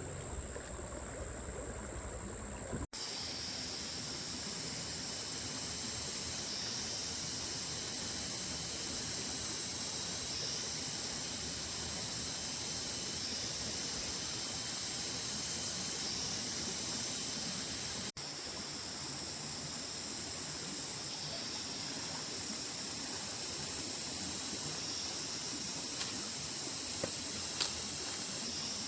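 Steady hiss of insects in the forest, their high drone swelling and fading every few seconds. The sound drops out for an instant about 3 seconds in and again about 18 seconds in.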